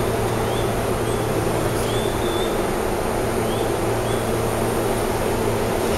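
Steady, loud mechanical hum of an electric commuter train at a station platform, with a few short high chirps scattered through it.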